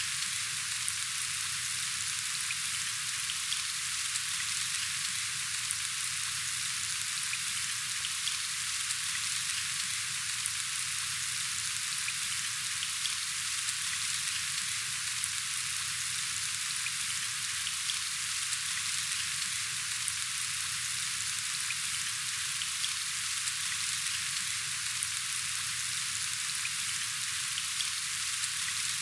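Steady rain falling, an even hiss with faint scattered drop ticks that holds level throughout.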